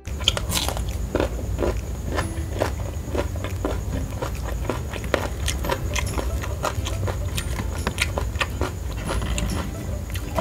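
Close-miked eating: crunching and chewing, with many sharp crunches and wet mouth clicks a few times a second over a steady low rumble. It starts with a bite of raw cucumber.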